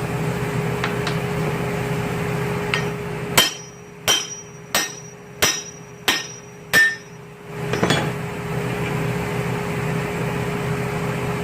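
A hammer strikes metal six times in an even rhythm, about one and a half blows a second. Each blow leaves a short ring at the same pitch, as it knocks at a part during a 13B rotary engine teardown. A steady hum runs before and after the blows.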